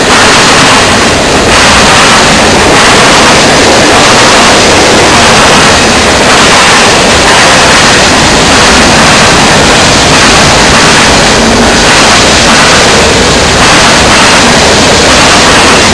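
Freight cars of a passing manifest train rolling by at close range: a loud, steady rush and rumble of steel wheels on rail, swelling slightly every second or two as car ends pass.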